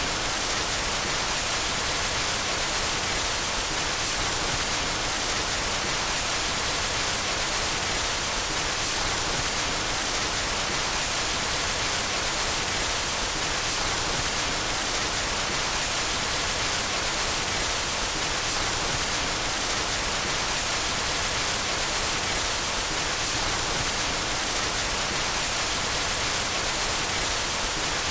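Steady white noise: an even hiss that is brightest in the treble and holds the same level throughout.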